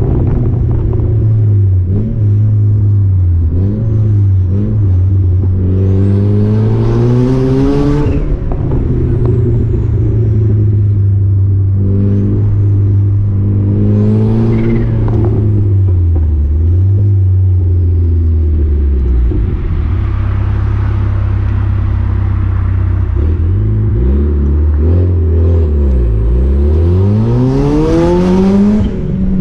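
Turbocharged four-cylinder engine of a Mazda MX-5 NC with an open downpipe, heard from inside the open-top cabin. It cruises steadily, then pulls up through the revs several times, about six seconds in, again around twelve seconds, and near the end. A high whistle rises on the hardest pulls.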